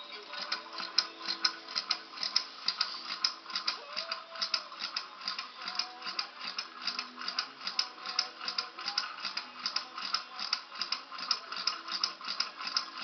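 Model Stirling engine running, its crank and linkage making a quick, even rattling tick on every turn.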